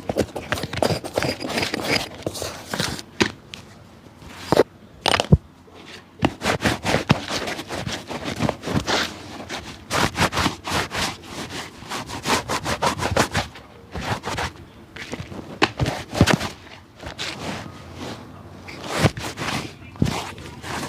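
Repeated quick scraping strokes on a shoe by a cobbler at work, coming in fast runs with short pauses between them.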